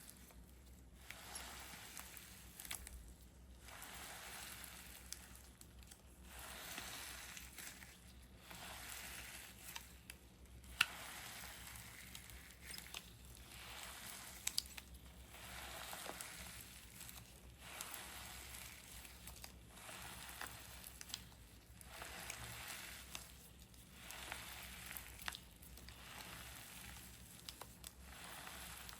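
A handmade squishy being squeezed and released over and over by hand: soft crinkly, hissing squishes, one every second or two, with an occasional sharp click.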